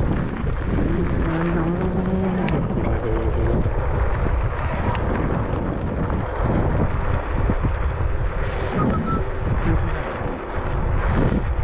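Wind buffeting the microphone while riding an e-bike, a loud steady rush, with a short low hum about a second in.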